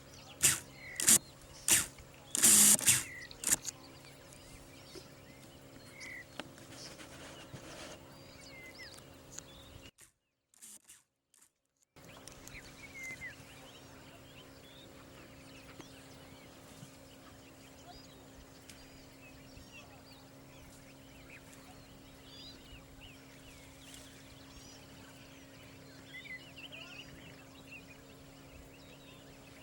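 Birds chirping over a steady low hum. A handful of loud sharp knocks come in the first three seconds, and the sound drops out completely for about two seconds in the middle.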